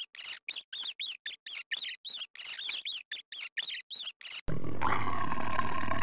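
A mouse squeaking, a rapid even run of short high-pitched chirps, about four or five a second. About four and a half seconds in it cuts off, and a continuous rasping big-cat growl starts at once.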